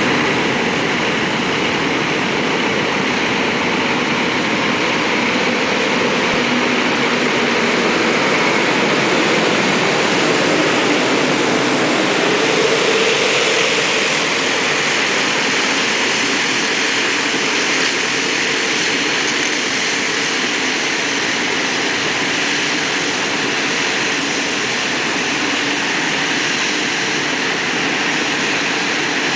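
Scania G 400 street-sweeper truck running with its suction system working: a loud, steady rush of air with engine noise under it and no break for the whole time.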